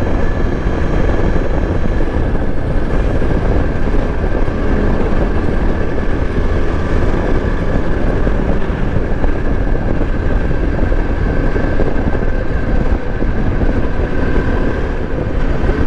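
Yezdi Adventure motorcycle's single-cylinder engine running at a steady cruising speed, mixed with a heavy, steady rush of wind on the microphone.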